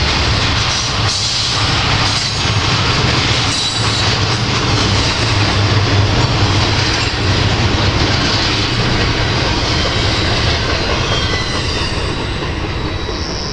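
Double-stack intermodal container freight train rolling past: a loud, steady rumble of wheels on rail and passing cars, easing slightly near the end as the last car goes by.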